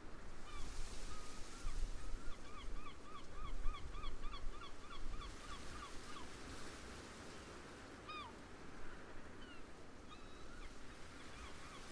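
Waterbirds calling in fast runs of short, clipped notes, about three a second, with a lone call about eight seconds in and the run picking up again near the end. Wind rumbles on the microphone underneath, strongest in the first few seconds.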